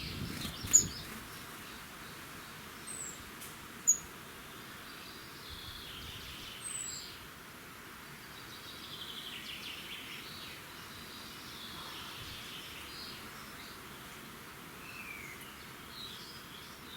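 Several birds singing at once in a dawn chorus, with trilled and warbling phrases over a steady outdoor hiss. A few short, sharp high chirps stand out, the loudest just under a second in and about four seconds in.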